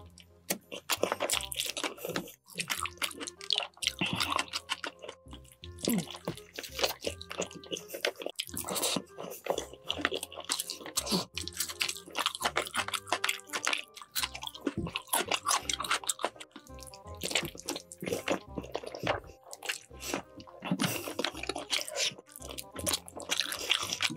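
Close-miked wet chewing, smacking and crunching of a mouthful of saucy roasted chicken, in dense irregular clicks, over background music.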